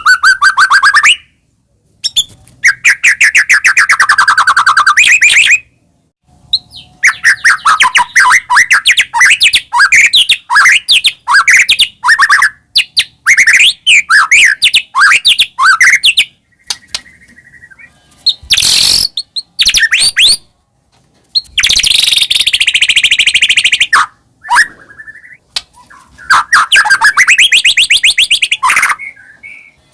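White-rumped shama (murai batu) singing loudly in bursts of fast trills, rapid repeated notes and whistles, with short pauses between the phrases.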